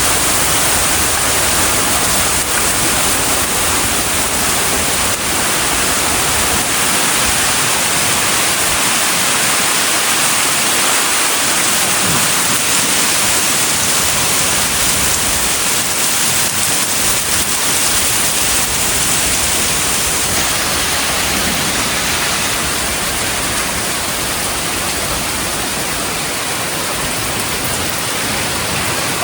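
Heavy rain pouring down in a thunderstorm: a steady, loud hiss that eases a little about two-thirds of the way through.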